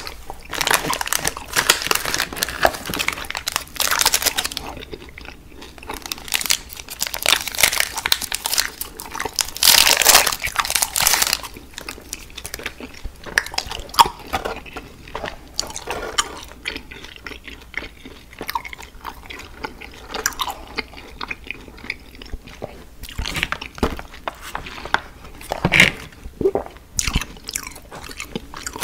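Close-miked chewing and crunching of candy. There are heavier stretches of crunching about a second in and again around ten seconds in, with lighter, sparser chewing between.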